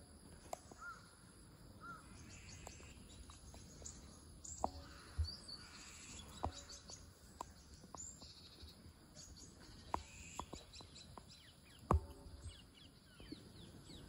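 Faint outdoor background with scattered short, high bird chirps and a few sharp clicks, the loudest about twelve seconds in.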